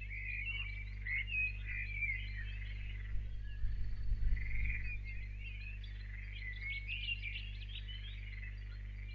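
Small birds singing, a dense run of chirps and warbles, over a steady low electrical hum. A brief low rumble comes about four seconds in.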